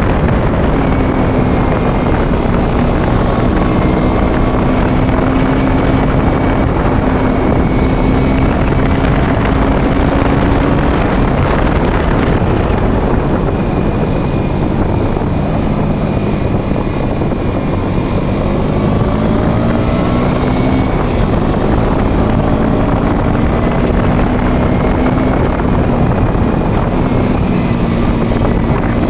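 Motorcycle engine running while riding, its note dropping and rising with the throttle, with wind rushing over the microphone.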